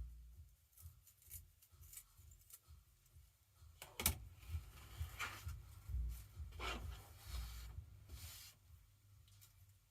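Deco mesh strips rustling and rubbing as they are handled and trimmed, with scissor snips and a sharp click about four seconds in.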